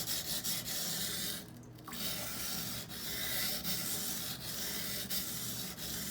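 Steel knife blade being ground back and forth on a wet Norton water stone, a steady gritty rasp in repeated strokes with a short pause about a second and a half in. Finger pressure is focused on the back portion of the edge, which has not yet raised a burr.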